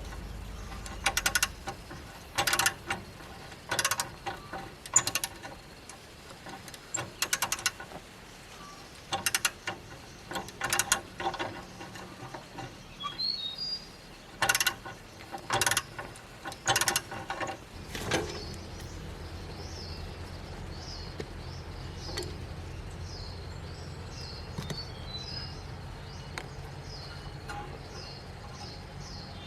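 Hammer striking metal in irregular blows, roughly one or two a second, some in quick pairs. The blows stop after about eighteen seconds, leaving a steady low hum with birds chirping.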